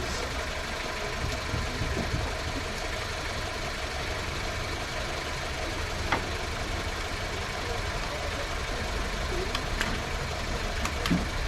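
A steady low engine rumble, like an engine idling, with a few short light clicks.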